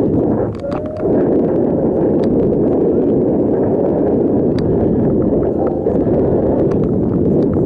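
Wind buffeting the microphone during a bicycle ride, a constant low rumbling rush, with scattered small clicks and rattles.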